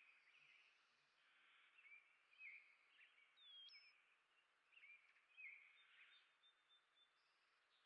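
Songbirds chirping faintly: a run of short chirps, with one clear whistled note that slides down in pitch about three and a half seconds in.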